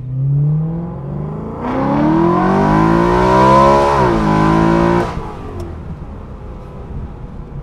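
BMW E93 M3's 4.0-litre V8 with an aftermarket full exhaust system, accelerating hard from a stop, heard with the top down. The revs rise briefly, then climb hard from about two seconds in, drop sharply at a quick DCT upshift near four seconds, and cut off when the throttle is lifted at about five seconds, leaving quiet cruising.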